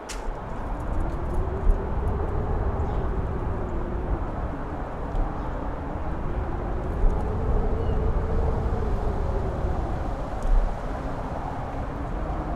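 Strong wind on a mountain top, with a deep rumble and a faint howling whistle that rises and falls in two slow swells.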